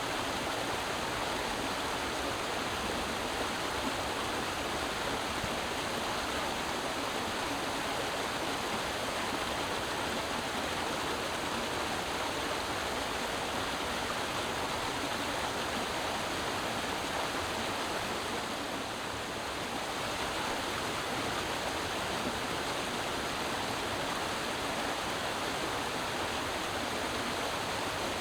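Creek water flowing and rushing over rocks, a steady babbling with a slight lull about two-thirds of the way through.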